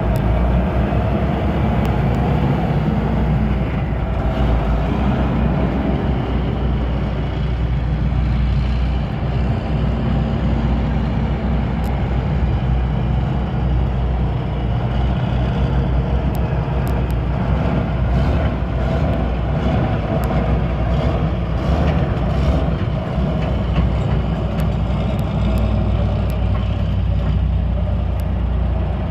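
1996 Kenworth tandem-axle dump truck's diesel engine idling steadily.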